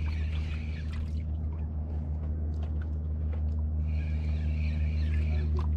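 Ultralight spinning reel whirring in two spells, one near the start and one in the last two seconds, which the angler calls the drag, with a few light clicks. Beneath it a boat engine runs steadily with a low hum.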